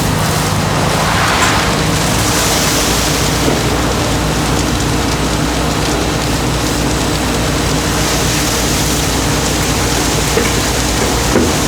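Snack-factory machinery running steadily: a loud, even hiss over a low hum, with a few faint clicks.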